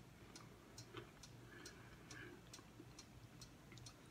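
Near silence with faint chewing: small, sharp mouth clicks at an uneven pace, several a second, over a low steady hum.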